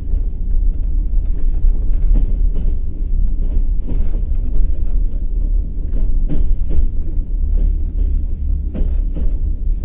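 Passenger train running on the rails: a steady low rumble with irregular clicks and knocks of the wheels over the rail joints.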